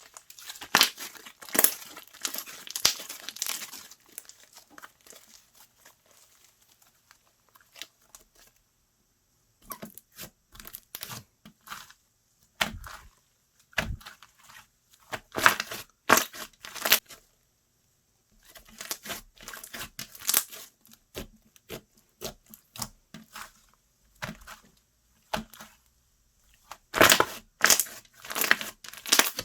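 Slime being squished and pressed by hand, giving clusters of sharp crackling, popping clicks separated by short quiet pauses.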